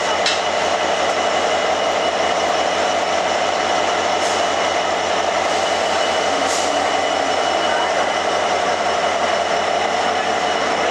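Express train with ICF coaches running steadily, a continuous rumble of wheels on rail, with two brief faint hisses about four and six and a half seconds in.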